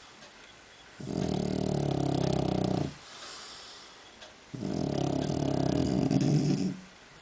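French bulldog snoring: two long, low, buzzing snores of about two seconds each, with a soft airy breath between them.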